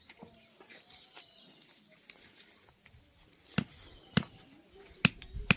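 Sticks and stones being handled while a bird trap is put together by hand: four sharp knocks and clicks in the second half, after a quiet stretch.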